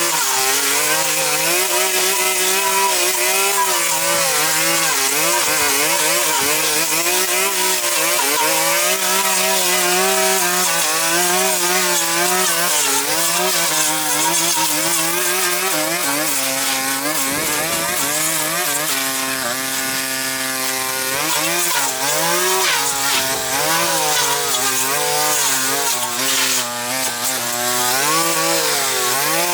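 Small two-stroke engine of a handheld power tool, such as a brush cutter or chainsaw, running without pause. Its pitch wavers up and down as the load changes while it cuts through growth, and it holds one even speed for a couple of seconds about twenty seconds in.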